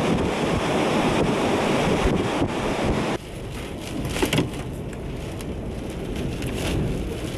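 Storm wind blasting across the microphone with rain, a loud steady rush. About three seconds in the rush cuts off suddenly, leaving softer rain noise with scattered sharp taps.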